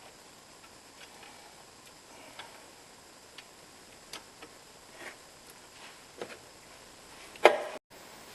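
Scattered, irregular light clicks and taps of hand tools working on the engine, with one louder knock near the end, then the sound cuts out abruptly.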